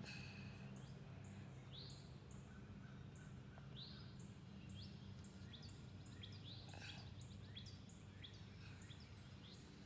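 Faint outdoor ambience: birds calling with short rising chirps, and a thin high note repeating about twice a second. A low steady hum sits underneath and fades out about halfway through.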